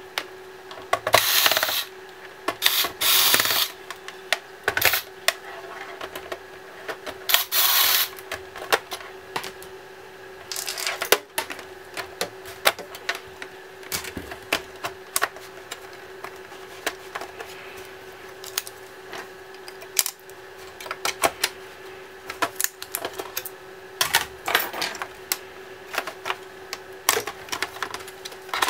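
Hand disassembly of a laptop: irregular small clicks and taps of plastic casing parts and screws being handled, with a few short scraping rubs, over a steady faint hum.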